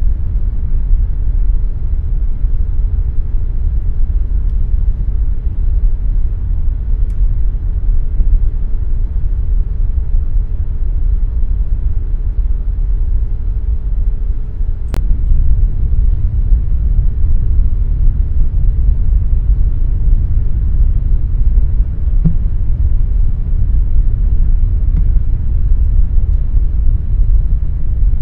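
Air conditioner running with a steady low rumble. A faint hum over it stops with a single click about halfway through.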